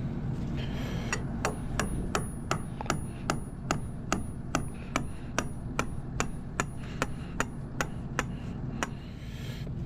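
Hammer driving a metal layout pin into the ground: about twenty sharp, evenly paced blows, roughly two and a half a second, each with a bright metallic ring. Wind rumbles on the microphone throughout.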